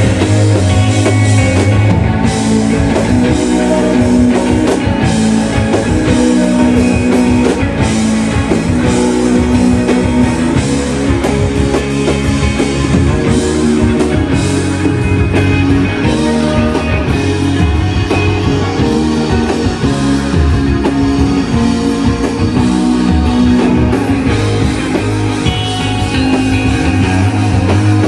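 Live shoegaze rock band playing loud and steady: dense, distorted electric guitars over bass and drum kit.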